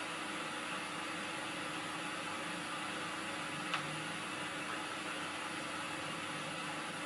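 Steady hiss with a faint low hum from VHS tape playback, with one short click about halfway through.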